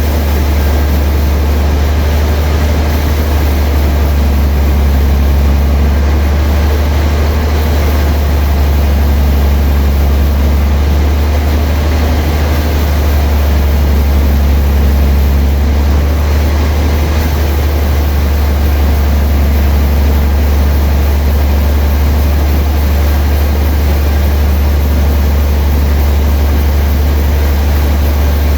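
Sawmill machinery running steadily with a loud, deep, unchanging hum.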